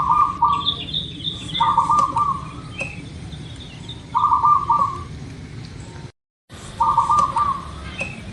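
Zebra dove (perkutut) cooing: short, rapid trilled phrases, four in all, repeated about every two to three seconds, with a brief break in the sound just after the third. Small birds chirp faintly in the background.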